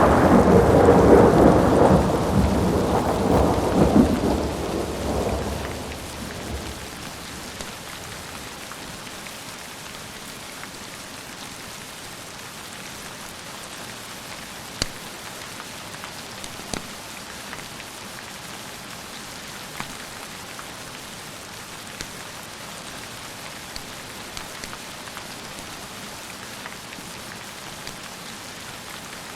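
A roll of thunder rumbles and dies away over the first six seconds, leaving steady rain with scattered sharp ticks.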